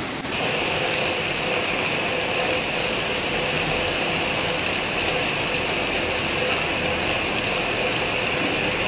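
Steady rain falling through a tree's leaves, an even hiss. A fraction of a second in, a steady high-pitched trill joins it and keeps on over the rain.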